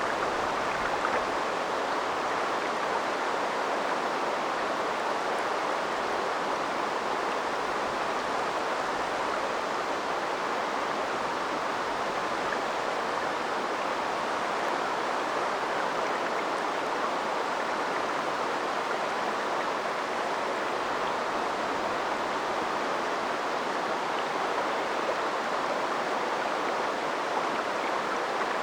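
A river flowing, an even, steady rushing of water that holds without a break.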